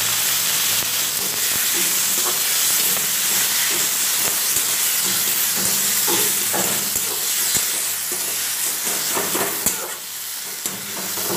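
Chopped tomatoes sizzling in hot mustard oil in a metal kadai, with a metal spatula scraping and knocking against the pan as they are stirred. The sizzle eases a little near the end.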